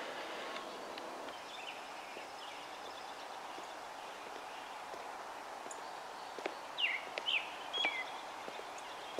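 Steady outdoor background hiss. About two-thirds of the way through, a bird gives four quick downward-sweeping chirps, the loudest sounds here.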